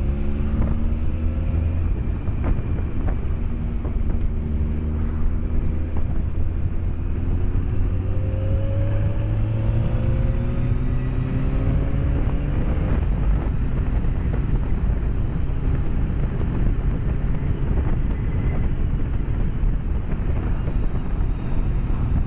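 BMW K1200S motorcycle's inline-four engine accelerating, its note rising steadily over about ten seconds after a short break near the start, heard through a microphone inside the rider's helmet over steady wind and road noise. The engine note then fades, leaving an even wind rush.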